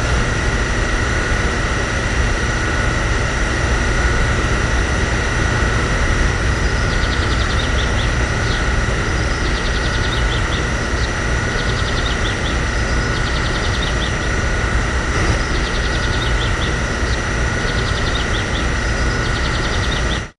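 A motor running steadily, with a constant high whine over a low rumble; faint chirps recur every second or so, and the sound cuts off suddenly at the end.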